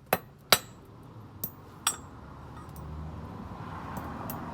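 Sharp metallic clinks and knocks of metal parts and tools being handled during a brake inspection: four strikes in the first two seconds, the first two loudest, followed by a faint steady rushing noise that slowly grows louder.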